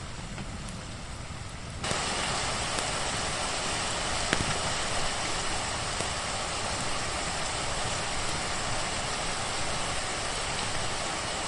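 Steady hiss of rain falling, which jumps abruptly louder and brighter about two seconds in and then holds steady. A single sharp click sounds about four seconds in.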